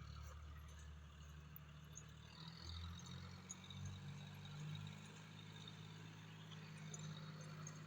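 Tractor engine running steadily, heard faintly as a low, even hum.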